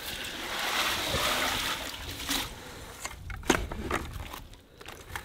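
Icy water splashing and sloshing in an ice bath as a person moves in it, easing off after about two seconds into a few separate knocks.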